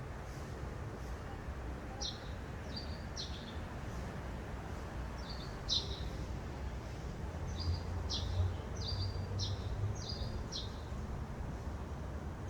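Small birds chirping: short, sharp chirps in small clusters, thickest about two thirds of the way through, over a steady low rumble.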